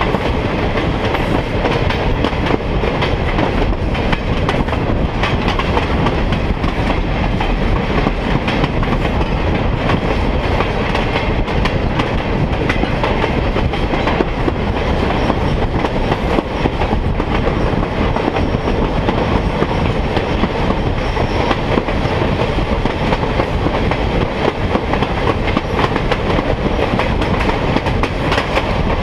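Steady rumble of a train's wheels rolling on the track, heard from aboard a moving railroad car, with a clickety-clack over the rail joints.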